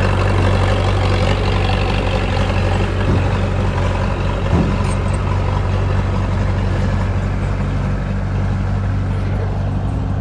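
Heavy construction machine's diesel engine running steadily under load, with a brief clunk about four and a half seconds in.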